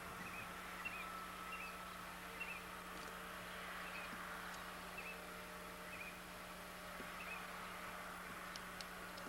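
A small bird chirping, short faint calls about once a second, over a steady low hum and tape hiss.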